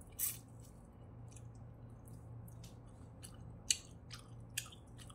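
Close-miked chewing of fried wagyu beef: irregular wet smacking clicks, about one every half second, the sharpest a little after three and a half seconds in. A steady low hum runs underneath.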